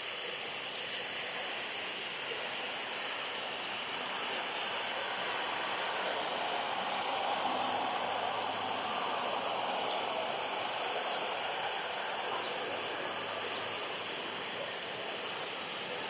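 Steady high-pitched hiss throughout. Under it, the faint sound of a distant Embraer regional jet on its takeoff run swells and fades in the middle.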